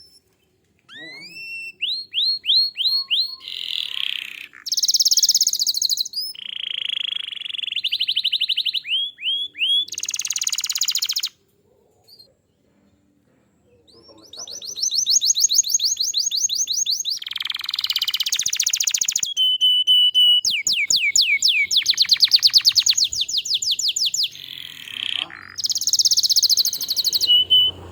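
Domestic canary singing a long, fast song of rapidly repeated notes and trills. It pauses for about three seconds roughly halfway through, then resumes.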